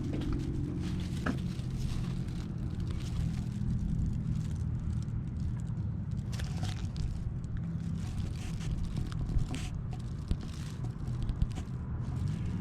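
Chevrolet Silverado pickup truck on the road, its engine and road noise making a steady low hum with a few light clicks.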